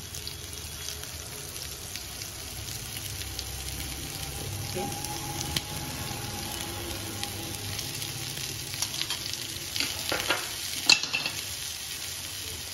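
Spinach and paneer kebabs shallow-frying in oil in a non-stick pan, a steady sizzle, while a steel spoon dabs oil over their tops. Several sharp clinks of the spoon come in the last few seconds, the loudest about two seconds before the end.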